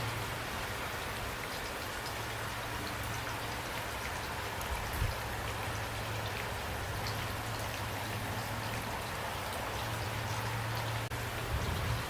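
Steady rain falling, with individual drops ticking close by over the even hiss of the downpour and a steady low hum underneath.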